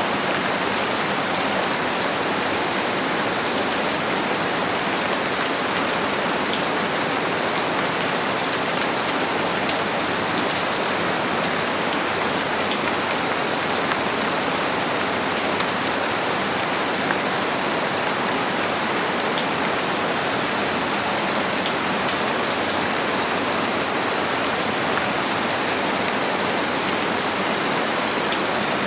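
Steady rain falling on a surface, a dense even hiss with fine patter of individual drops.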